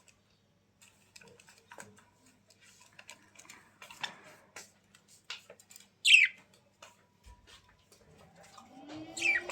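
A pet bird gives two short, loud squawks that fall steeply in pitch, one about six seconds in and one near the end, amid light tapping and rustling. Just before the end a machine hum starts up, rising in pitch and then holding steady.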